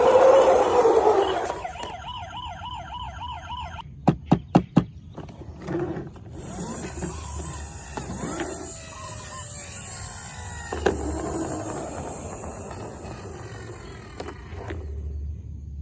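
Electronic toy siren: a fast wavering siren tone, preceded by a loud falling sweep, then four sharp clicks and a run of mixed gliding toy sounds.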